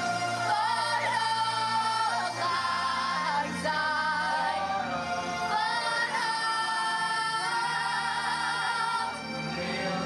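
Music: singing with long held, wavering notes over a low accompaniment whose notes change.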